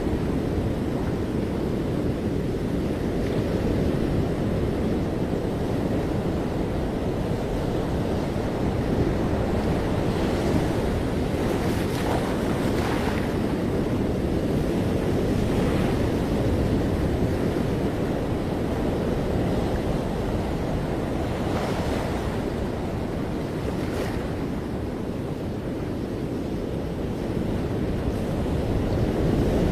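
Ocean surf breaking and washing up a beach: a steady, deep rush of water with a few brighter hissing swells. Wind is also buffeting the microphone.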